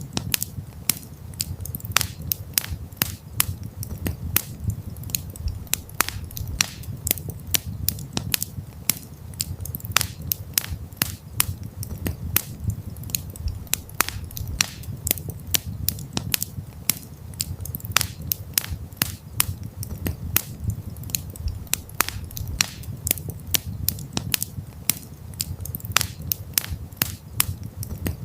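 Wood campfire crackling: frequent sharp, irregular pops and snaps over a low, steady rumble of the burning fire.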